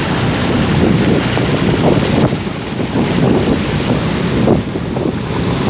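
Wind buffeting the microphone: a loud, gusty rumble that surges unevenly.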